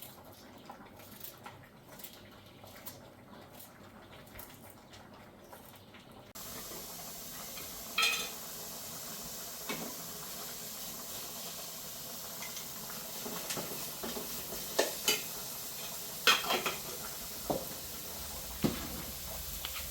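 Metal utensil clinking against a cooking pot several times over a steady frying sizzle. The sound changes abruptly about six seconds in, when the sizzle and clinks begin.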